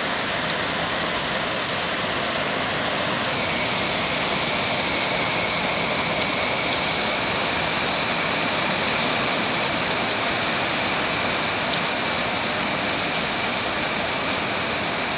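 Heavy rain falling and splashing on wet pavement, a steady even hiss throughout, with a faint steady high tone running through it.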